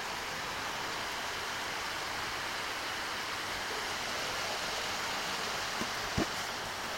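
Steady rushing noise of running water, with two soft thumps about six seconds in.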